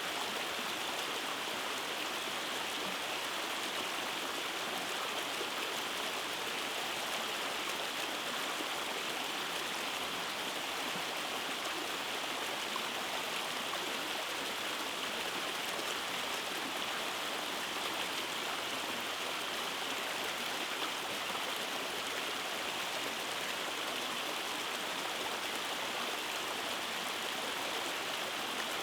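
Rainforest stream running over cascades: a steady rush of flowing and splashing water with no breaks.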